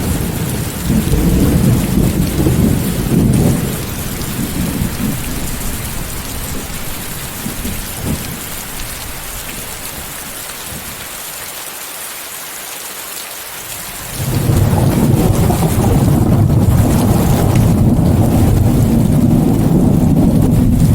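Steady rainstorm with rolling thunder over a white-noise hiss. A low rumble of thunder fades out after about three seconds and the rain carries on quieter, then another rumble comes in suddenly about fourteen seconds in and keeps rolling loudly.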